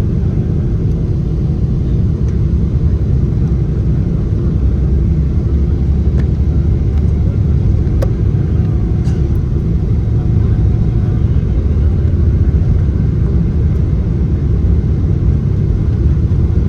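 Boeing 777's GE90 turbofan engines at full takeoff power: a loud, steady deep rumble.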